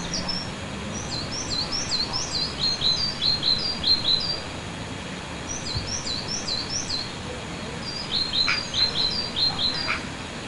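Small birds chirping: runs of quick, high, down-slurred chirps in three bursts, over a steady outdoor background hiss.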